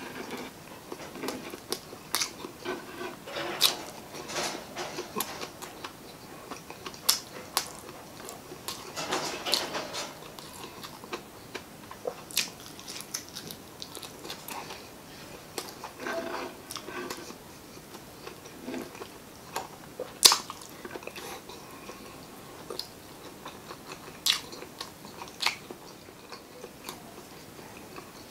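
Close-miked wet chewing and lip smacking, with many sharp mouth clicks, as spicy adobo chicken gizzards and liver with rice are eaten by hand. One louder smack comes about twenty seconds in.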